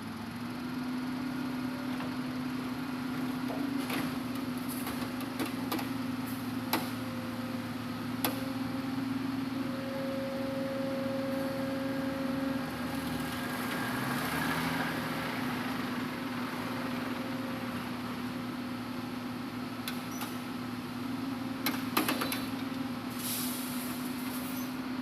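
Hitachi Zaxis 200-5G excavator's diesel engine running at a steady pitch, with a few sharp knocks and clanks, the loudest near the end.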